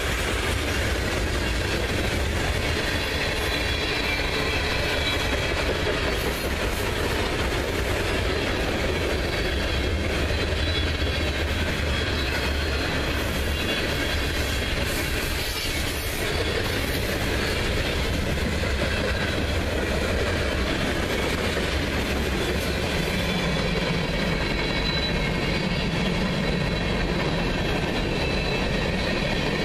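Freight cars of a long mixed freight train rolling past close by: a steady rumble and rattle of steel wheels on the rails.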